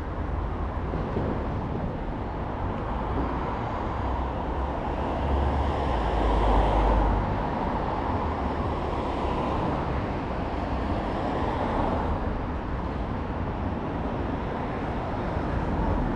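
Steady road traffic with a low rumble, one vehicle swelling louder as it passes about six seconds in.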